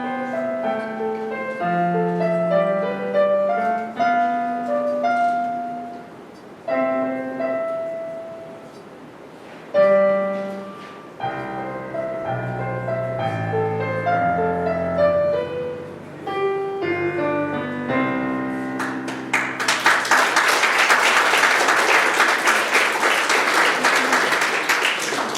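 Solo piano playing a gentle melodic piece. About three-quarters of the way through, the music ends and audience applause takes over.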